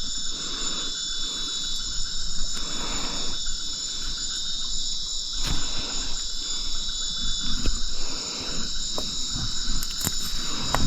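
Steady, high-pitched chorus of crickets and other insects, with soft rustling noises coming and going about once a second.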